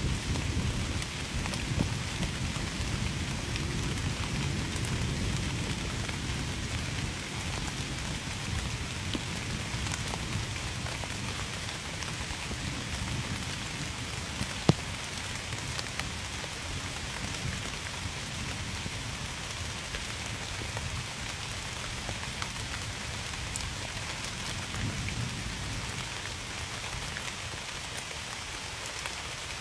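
Steady rain falling, with single drops ticking on a surface and one sharper drop tick about halfway through. A low rumble of distant thunder is strongest in the first several seconds, then fades, swelling briefly again near the end.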